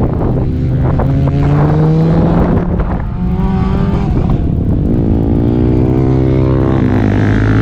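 Motorcycle engine accelerating hard. Its pitch climbs, drops at a gear change about three seconds in, then climbs again.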